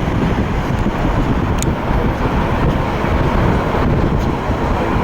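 Loud, steady jet engine roar of an airliner passing the airfield, with wind buffeting the microphone.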